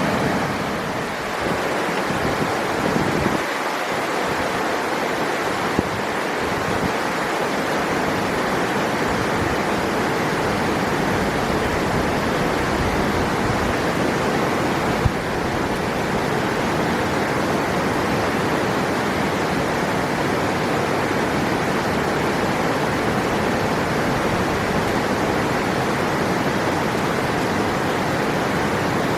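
Steady rush of flowing river water, with one short sharp click about halfway through.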